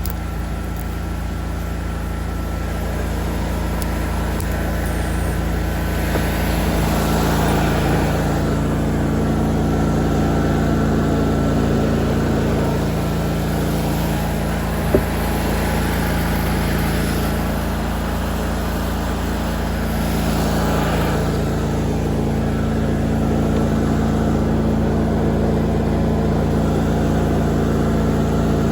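Lawn mower engine running steadily under load while cutting grass, its noise swelling and easing slowly, with one sharp click about halfway through.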